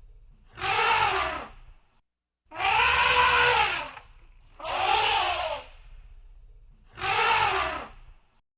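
Elephant trumpeting: four loud calls, each about a second long, arching up and then down in pitch, repeated about every two seconds.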